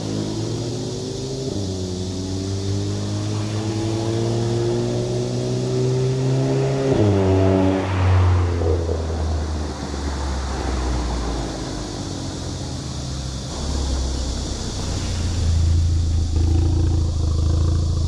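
VW Golf GTI engine and exhaust accelerating: the engine note climbs steadily for several seconds, drops abruptly at a gear change about seven seconds in, and settles into a lower, steady drone.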